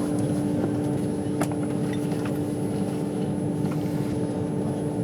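Steady running noise of a train heard inside a passenger carriage: a low rumble with a constant hum, and one sharp click about one and a half seconds in.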